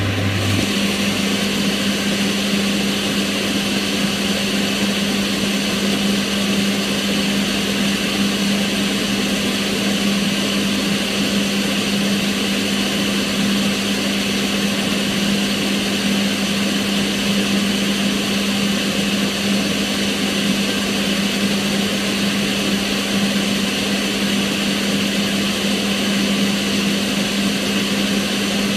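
Kitchen range hood extractor fan running steadily: an even rush of air with a steady low motor hum.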